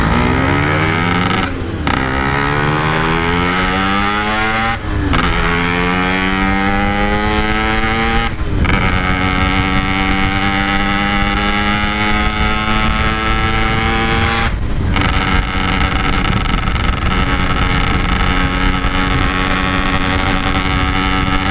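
Yamaha RX-King two-stroke single with a stock-style Packing Power exhaust, riding hard and accelerating up through the gears. The pitch climbs and breaks four times at the upshifts, then holds steady at cruising speed for the last several seconds.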